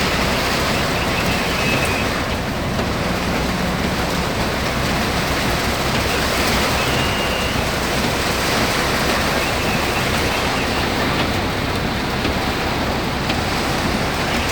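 Heavy rain falling, a steady dense hiss, with a low hum that fades out about four seconds in.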